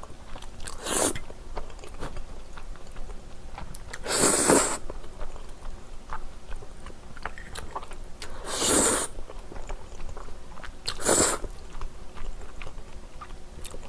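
A person eating crunchy food close to the microphone: four loud crunching bites, a few seconds apart, with softer chewing between them.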